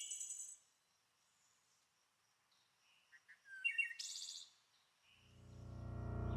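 Birds chirping: a short high trill at the start and a quick burst of chirps about three and a half seconds in. Near the end, guitar music fades in and swells.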